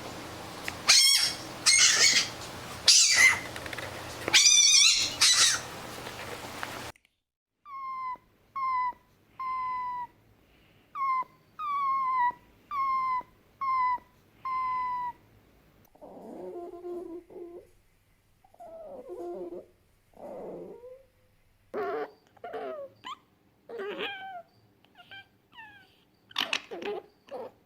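Fennec fox calls from several recordings: loud shrill squeals at first, then a run of about nine short yips, each sliding down in pitch. These are followed by lower, rough calls and a few quick sharp cries near the end.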